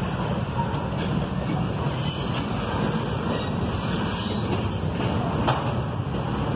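Double-stack intermodal freight cars rolling past close by: a steady rumble of steel wheels on rail, with a few sharp clicks.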